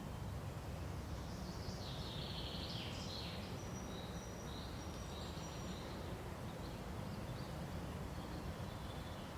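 Birds chirping and whistling in short high calls, busiest from about two to four seconds in, over a steady low rumbling background.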